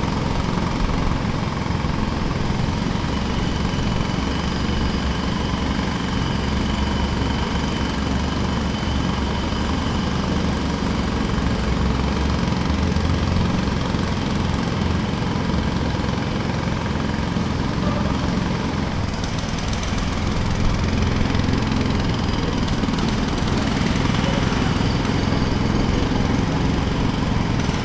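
Jackhammer running continuously, a rapid, even stream of strikes.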